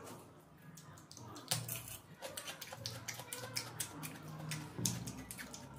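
Close-miked eating sounds: wet chewing and lip-smacking, with many short moist clicks.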